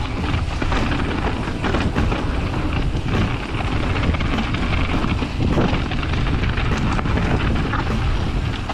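Wind rushing over the microphone of a mountain bike's rider-mounted camera at speed on a trail, with frequent small knocks and rattles from the bike over rough ground.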